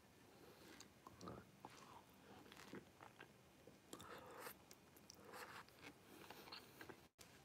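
Faint sounds of a person eating stir-fried noodles with chopsticks: quiet chewing and small mouth noises, a little stronger about four seconds in as a noodle is drawn into the mouth.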